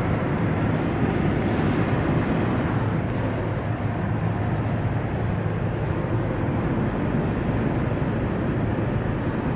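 Van running at highway speed: a steady rush of road and wind noise over a low engine hum.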